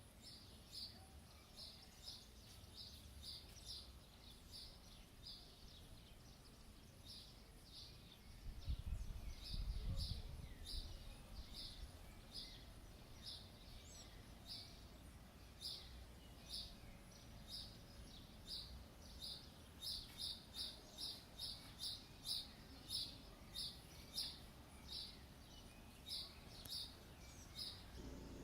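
A bird chirping over and over, short high notes about one or two a second, coming faster near the end. A brief low rumble swells about nine seconds in.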